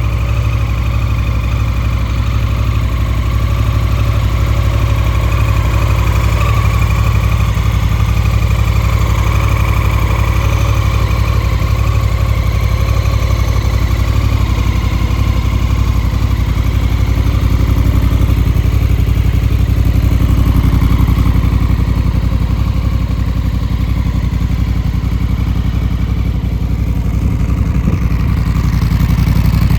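Honda CRF1000 Africa Twin's parallel-twin engine idling steadily through a full SC Project aftermarket exhaust.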